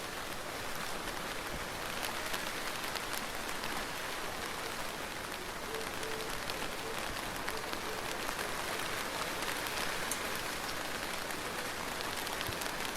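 Steady rain falling on a surface, with many separate drops ticking through it.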